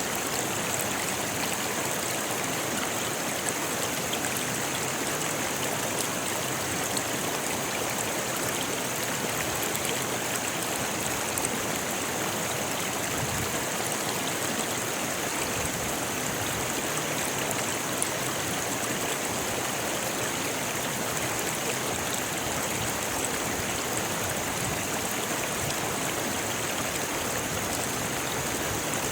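Rocky river flowing over stones: a steady, even rush of water with a few small splashes.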